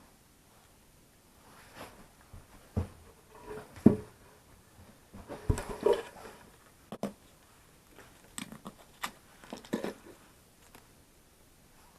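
Irregular crunches and knocks of someone moving about in snow and handling wood, with a few sharp clicks and thumps; the sounds come in scattered clusters and die away near the end.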